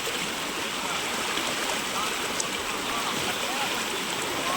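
Steady rushing water, an even wash of noise without breaks.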